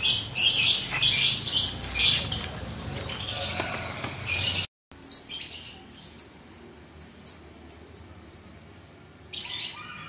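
Birds chirping, a rapid, irregular run of short high calls, with a sudden brief break a little under five seconds in.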